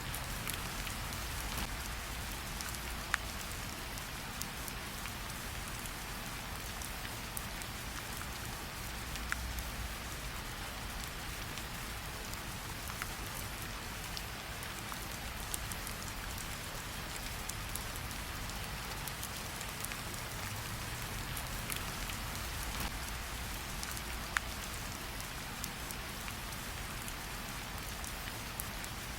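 Steady rain falling, with scattered sharp crackles from a campfire.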